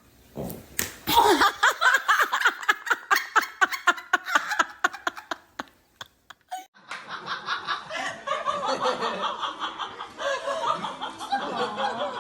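A person laughing hard in a rapid run of short bursts for several seconds, then after a brief pause more laughter mixed with voices.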